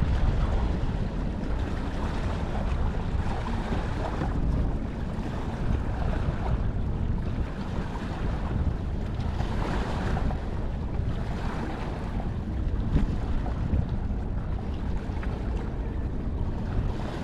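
Wind buffeting the microphone, a rumbling rush of noise that swells and eases every few seconds.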